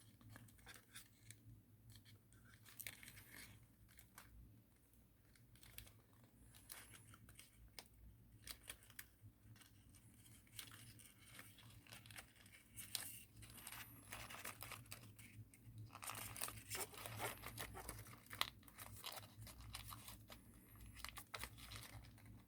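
Faint rustling and crinkling of thin origami paper being folded and pressed into shape by hand, in soft irregular crackles that grow busier in the second half, over a low steady hum.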